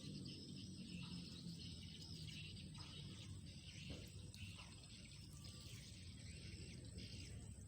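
Faint outdoor ambience: a steady high-pitched insect drone over a low rumble, with a few soft ticks.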